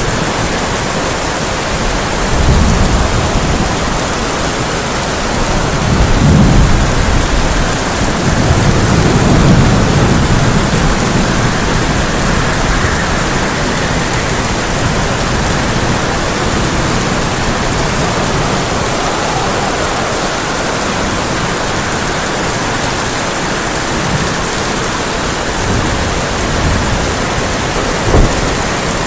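Heavy rain pouring steadily on a tin roof. Low rolls of thunder rumble a few seconds in and again a little later, and there is one short sharp crack near the end.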